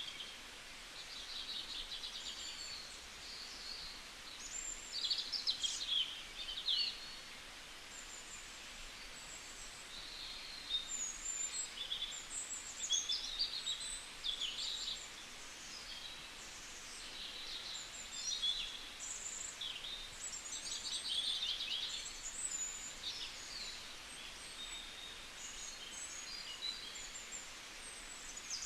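Several small birds chirping and twittering, many short high-pitched calls and trills overlapping, over a faint steady outdoor background.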